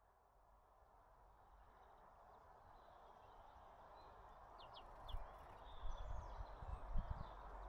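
Outdoor ambience fading in: a steady background hiss with a few short, high bird chirps about halfway through, and low thumps from about five seconds in.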